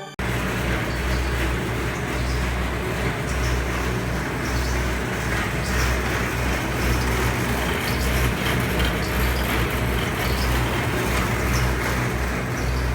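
PVC flexible duct forming machine running steadily in the factory: a continuous low hum under a dense mechanical hiss.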